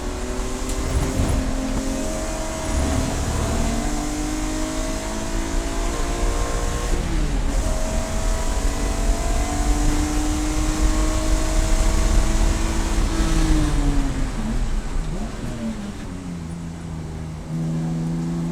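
Race car engine accelerating through the gears, its pitch climbing over long stretches with a few step drops at upshifts. The engine note falls away about fourteen seconds in, then starts climbing again near the end.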